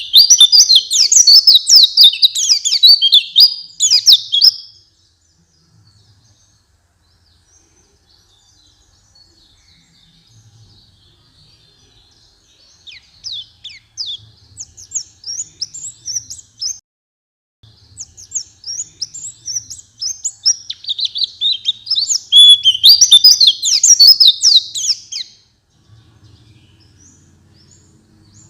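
White-eye (pleci) singing: fast, high twittering chirps in long bursts. A loud burst opens, a softer one comes near the middle, and a second loud burst comes after it, with brief lulls between them.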